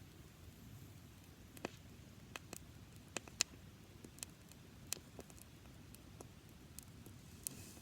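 Dry-grass campfire crackling: sharp, irregular pops, about a dozen, over a faint steady hiss.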